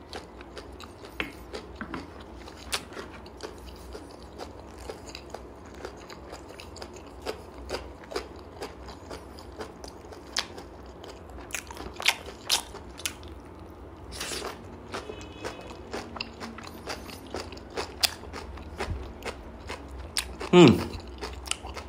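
Close-miked mukbang chewing of grilled pork udder (nầm heo) with lettuce and okra: wet smacking clicks and crunches, a few louder crunches in the middle.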